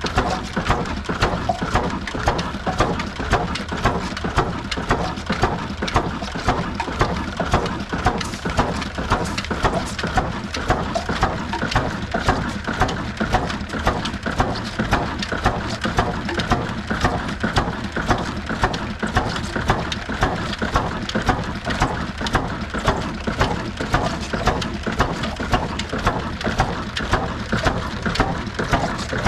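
Old stationary diesel engine running steadily with a slow, even beat of exhaust strokes, driving a flour mill (aata chakki) whose grinding adds a dense rushing noise.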